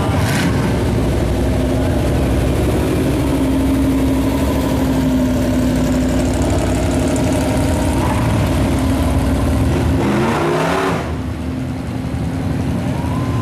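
Car engines running steadily as cars drive by in a parade. About ten seconds in, one engine swells in pitch and loudness as it revs or passes close.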